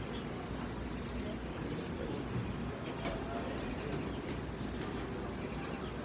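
Short, quick trills of high bird chirps repeating every second or so over a steady background hum, with a few faint clicks.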